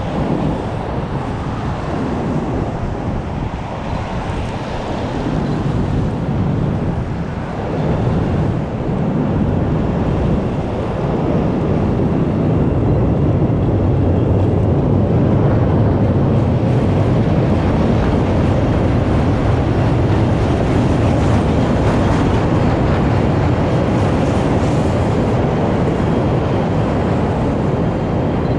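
Blizzard wind buffeting the microphone as a loud, steady rumbling rush, getting louder about halfway through.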